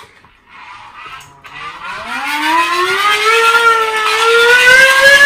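A siren winding up: a single wailing tone that starts about a second and a half in, climbs steeply in pitch for about two seconds, then holds high with a slight waver and is still edging upward and getting louder at the end.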